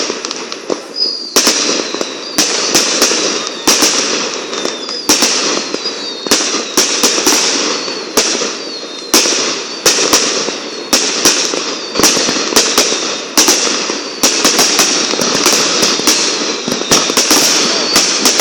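Fireworks display: a rapid, unbroken run of aerial shell bursts, several bangs a second, over steady crackling, with a few faint falling whistles in the first few seconds.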